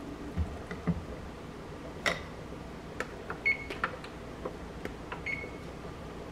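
Hard kitchenware being handled: a dozen or so scattered knocks and clinks, a few of them ringing briefly like dishes or utensils touching.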